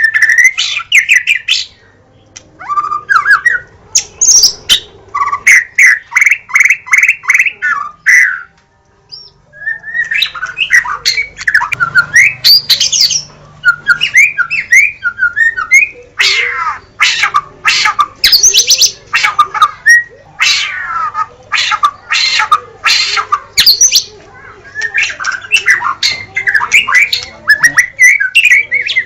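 White-rumped shama (murai batu) singing a varied song of loud whistles and fast runs of rapidly repeated notes, with a short pause about nine seconds in.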